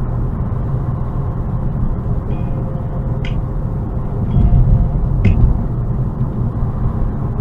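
Steady low road and engine rumble inside a moving car, swelling a little about four to five seconds in, with a few faint short clicks.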